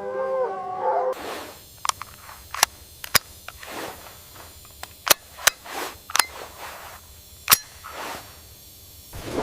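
Wolves howling for about the first second, then a series of about seven sharp, loud cracks at irregular intervals, with rustling noise between them.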